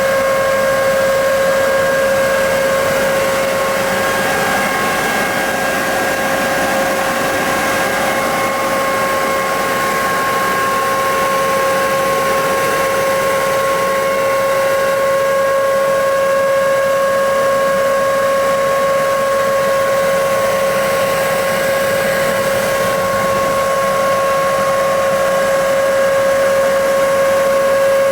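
KEFELI orchard nut blower running steadily: a constant high whine over a rush of blown air, with no change in speed.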